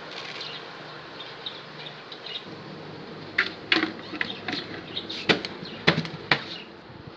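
Pet budgerigars chirping in short, high twitters, with five or six sharp clatters in the second half.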